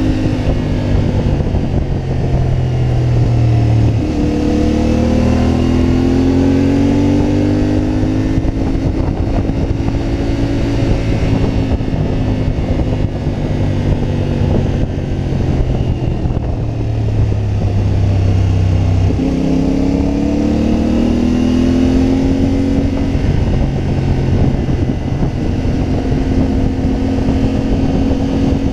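CFMoto 450MT's parallel-twin engine running under way while the motorcycle is ridden. Its pitch drops and then climbs twice, about four seconds in and again near nineteen seconds, as it pulls through the revs, with steady road and wind noise underneath.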